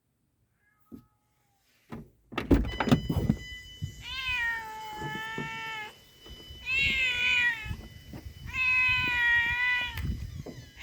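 A few knocks and thumps about two seconds in, then a cat meowing three times, each meow long and drawn out.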